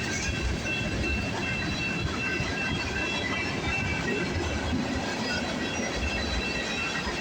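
Freight train cars rolling past: a steady low rumble with thin high-pitched wheel tones coming and going.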